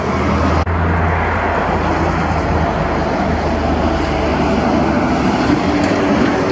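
Motor vehicle running steadily, a low engine hum under road noise, with a sudden brief break about half a second in.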